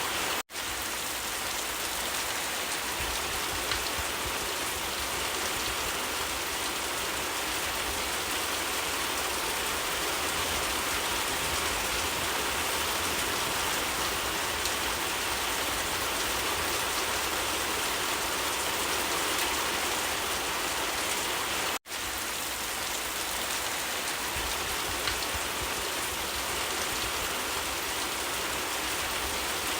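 Steady heavy rain: a dense, even hiss of falling rain that cuts out twice for an instant, about half a second in and again around 22 seconds.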